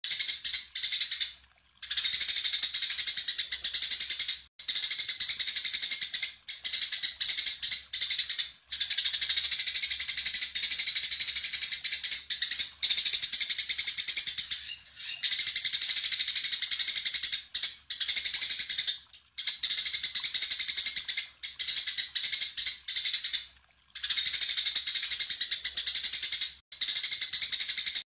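A songbird singing in long runs of rapid, dense chattering notes, each run lasting a few seconds and broken by short pauses.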